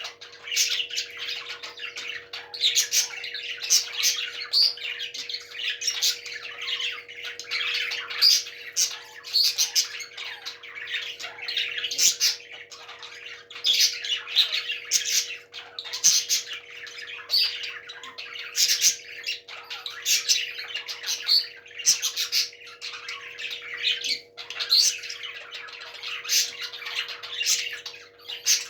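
Parrots squawking and chattering in a dense, unbroken run of sharp calls, over a steady low hum.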